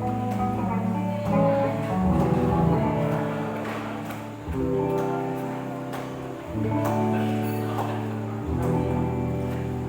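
Live band playing an instrumental passage: sustained chords over a steady bass, changing roughly every two seconds, without singing.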